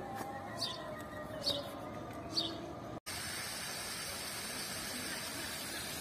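A bird repeating a short, high, falling chirp roughly once a second. After an abrupt cut about three seconds in, a steady even hiss takes over.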